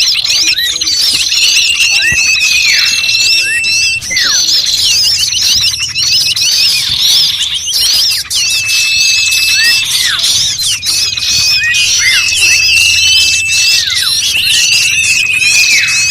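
Dense, noisy chorus of many small birds calling at once, with rapid chirps, swooping notes and fast trills, and long level whistles recurring every few seconds. It is a bird-lure recording made to call in small birds.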